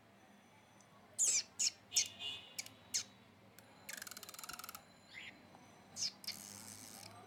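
Budgie chirping: a quick run of short chirps, then two harsh, buzzy rasping calls of about a second each, with single chirps between them.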